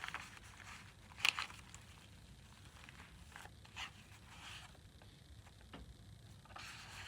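Light paper handling: soft rustles and scrapes as journal pages, tags and flaps are moved, with one sharper click about a second in.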